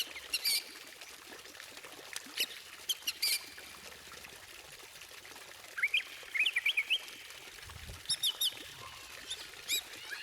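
White-rumped shama (murai batu) song: short bursts of sharp, very high notes, then about six seconds in a quick run of rising and falling whistled notes, and more sharp high notes near the end.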